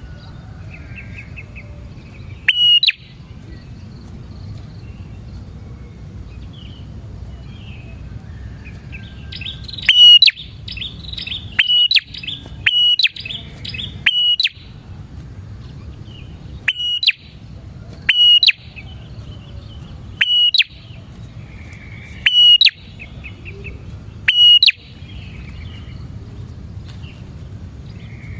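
Prinia (prenjak) singing loud, sharp high notes, repeated every one to two seconds, with softer twittering between them. Under the song is a steady low background noise.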